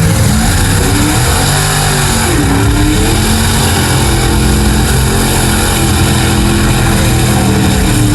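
Mega truck's big engine running loud under load, its pitch dipping and rising about two to three seconds in, then holding steady.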